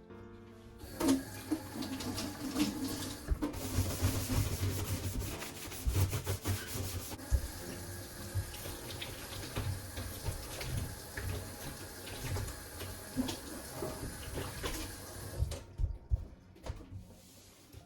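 A tap running into a kitchen sink for about fifteen seconds, with small knocks and clatter of things being handled under the stream. The water shuts off near the end.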